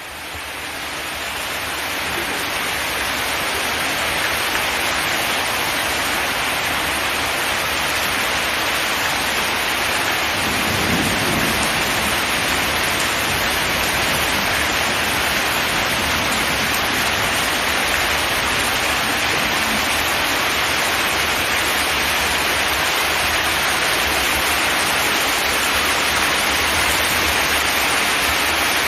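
Steady heavy rain drumming on a zinc metal roof, fading in over the first few seconds, with a brief low rumble about eleven seconds in.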